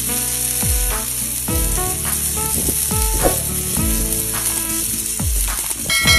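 Ground beef sizzling steadily on a hot flat-top griddle, under background music with a steady beat.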